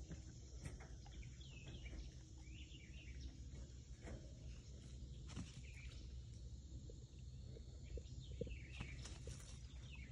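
Faint outdoor ambience: small birds chirping on and off over a steady low rumble, with a few light ticks.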